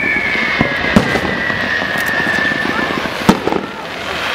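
Fireworks display: continuous crackling from bursting shells and low-level effects, with sharp bangs about a second in and again, loudest, a little over three seconds in. A high whistle, slowly falling in pitch, runs under the crackle and stops about three seconds in.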